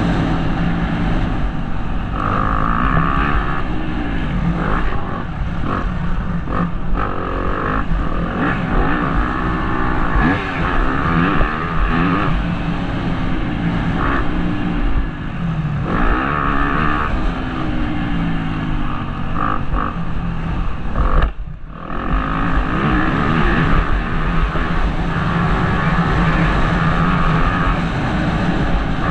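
Motocross bike engine revving hard and falling back over and over as the rider accelerates, shifts and rolls off around the track, picked up by a helmet-mounted camera. The sound briefly drops out a little after twenty-one seconds in.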